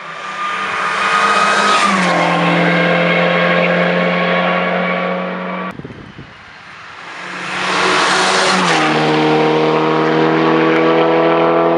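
Two hillclimb race cars passing at full throttle one after the other, each engine's pitch dropping sharply as it goes by. The first cuts off suddenly just before halfway, and the second builds up a second or so later.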